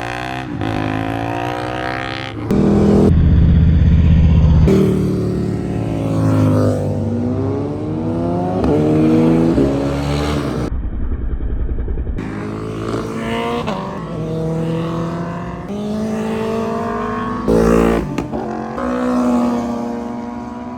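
Sport motorcycles passing one after another, engines revving up through the gears, each one's pitch dropping as it goes by. The loudest pass comes about three seconds in, and another sharp burst comes near the end.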